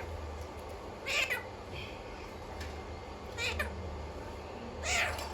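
Alexandrine parrot giving three short, harsh calls, about a second and a half to two seconds apart.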